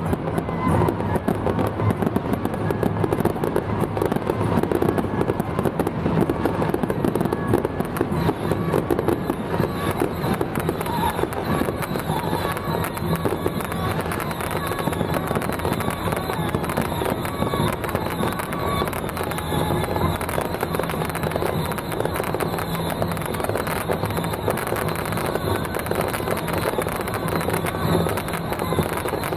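Fireworks going off in a dense, steady crackle of many rapid small bangs.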